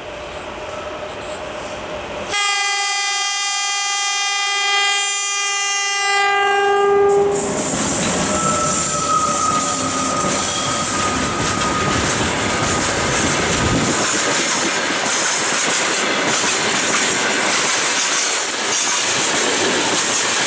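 2ES5K Ermak two-section electric freight locomotive sounding one long, steady horn blast of about five seconds as it approaches, starting a couple of seconds in. The locomotive and a string of freight wagons then rumble past close by, with wheels clacking over the rail joints.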